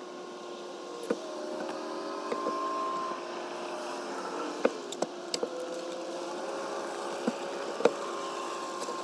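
Boat motor running with a steady hum whose pitch drifts slightly, broken by several sharp knocks and clicks on the boat.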